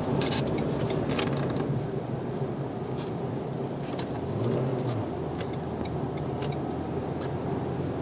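Renault Mégane IV 1.6 dCi diesel heard from inside the cabin in Sport mode: a steady low engine drone that swells briefly about four and a half seconds in.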